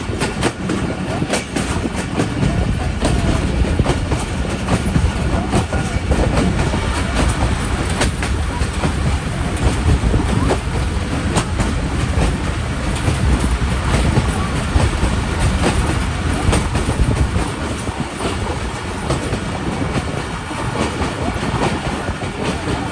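Passenger train coach running at speed, heard from an open window: a steady loud rumble of wheels on the track, with frequent sharp clicks from the rails.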